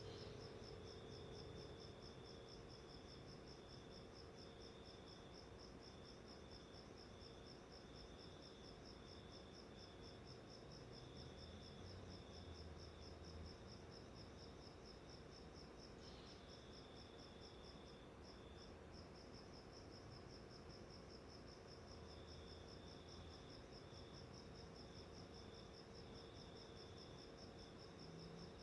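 Faint insect chirping: a high chirp repeating in even, rapid pulses throughout, with a second, lower trill that comes and goes, over a steady low hum.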